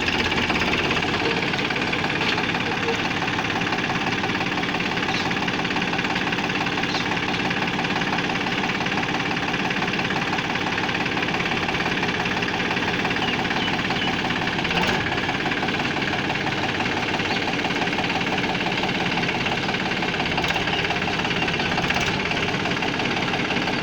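Tractor's diesel engine running steadily, with a few faint knocks over it.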